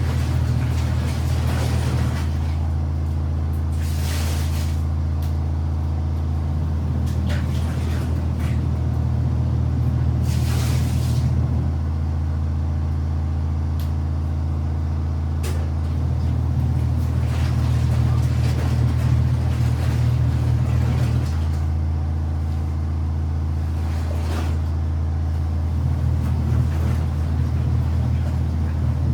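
Washing machine motor running, a steady low hum whose tone shifts every four to five seconds, with a few short swishes.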